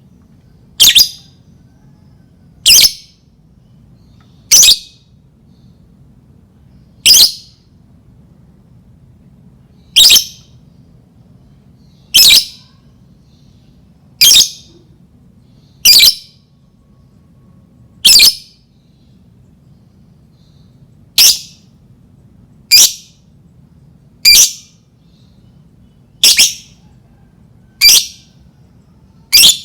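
Lovebird giving single short, high-pitched calls, one every two seconds or so, about fifteen in all, over a faint steady low hum.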